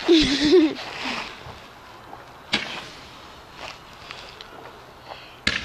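Fireworks going off: a hissing burst as one fires at the start, then two sharp bangs about three seconds apart.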